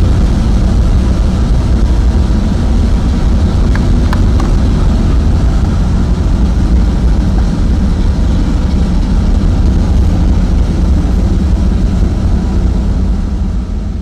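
Steady, loud low rumble of a train running.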